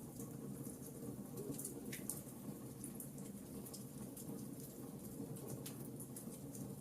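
Burning logs crackling: frequent small, sharp pops and snaps at irregular intervals over a steady low rumble of the fire.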